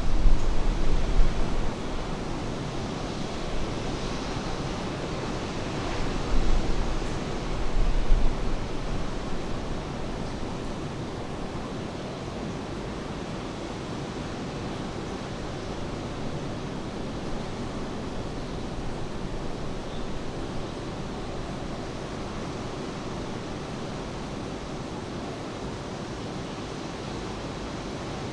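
Steady rushing of rain and sea surf. Wind gusts buffet the microphone with a low rumble at the start and again about six to eight seconds in, then the sound settles to an even hiss.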